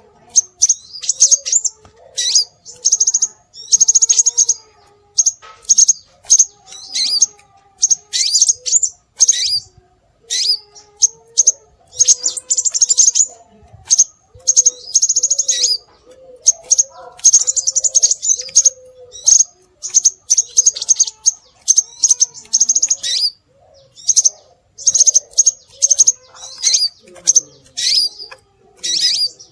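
Scarlet minivet calls: runs of high-pitched chirping notes repeated in quick phrases with short gaps between them, over fainter, lower wavering bird notes.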